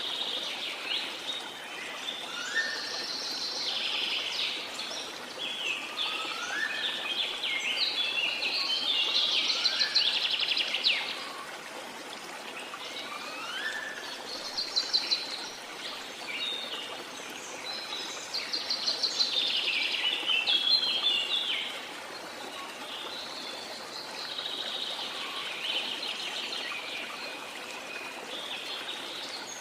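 Rainforest birds singing in repeated bouts of fast, trilled phrases, with several short rising whistles in between, over a steady rush of water.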